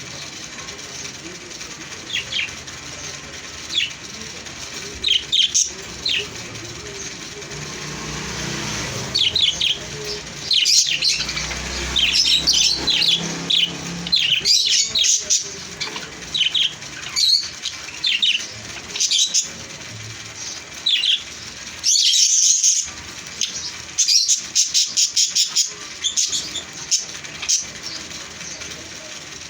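Small pet parrots chirping in short, high calls, sparse at first and then busy and rapid from about a third of the way in.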